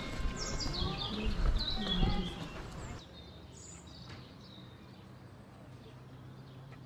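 Outdoor background noise with birds chirping: a run of quick calls, each falling in pitch, in the first three seconds. The level then drops to a quieter background with a steady low hum.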